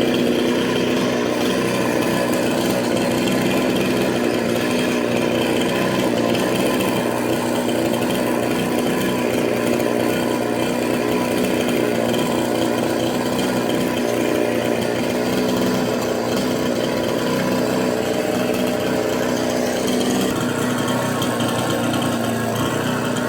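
Chainsaw running at a steady speed, its engine note even throughout.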